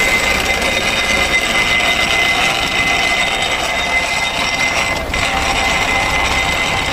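Tractor engine running on the move, a steady noisy drone with a constant high-pitched whine over it.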